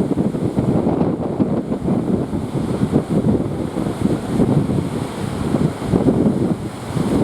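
Strong wind buffeting the microphone, a dense gusting rumble that rises and falls, over the wash of ocean waves.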